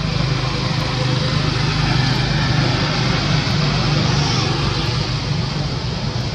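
A motor vehicle's engine running steadily with a low hum and a wash of noise.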